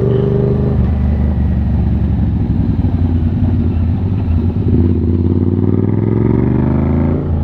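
Yamaha MT-07's 689 cc parallel-twin engine running under way as the motorcycle is ridden. The engine note climbs steadily from about five seconds in as it speeds up, then drops sharply just before the end.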